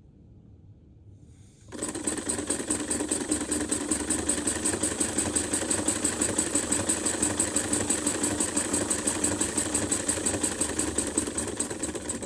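Lego pneumatic engine with two pneumatic cylinders running fast on compressed air from an air duster can: a rapid, even clatter of pulses over a steady hiss of escaping air. It starts about two seconds in and stops just before the end.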